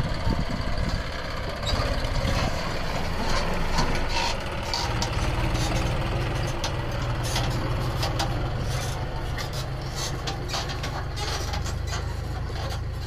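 John Deere 5104 tractor's diesel engine running steadily under a sugarcane load, with scattered clicks and knocks over it.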